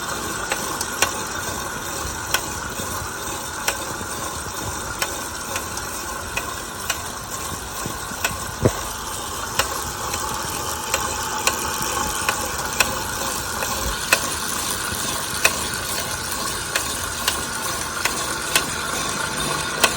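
Wahoo Kickr direct-drive smart bike trainer running with a steady whir, with a sharp click about once a second: the clicking noise that is the unit's fault.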